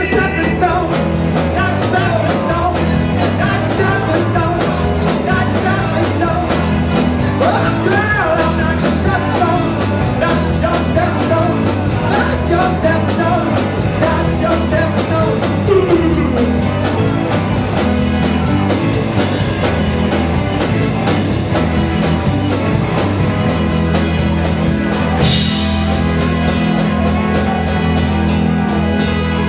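Live rock band playing an instrumental passage, with a drum kit keeping a steady beat under busy melodic lead lines.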